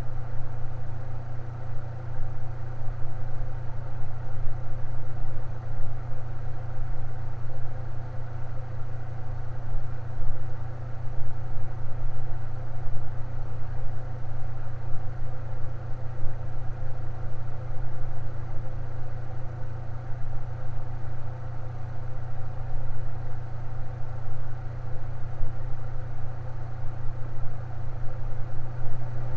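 Electric fan running steadily: a constant motor hum with a low drone and an even whir of air.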